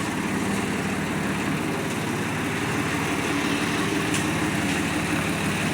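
Swaraj 855 tractor's three-cylinder diesel engine idling steadily.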